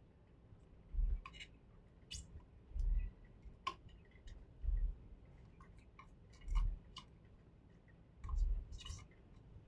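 Small sharp clicks and taps of hand work on a TV's circuit board during capacitor replacement, with a soft low thump repeating about every two seconds.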